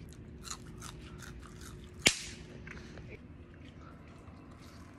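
Faint chewing and mouth sounds of a person eating a bagel, with one sharp, loud click about two seconds in.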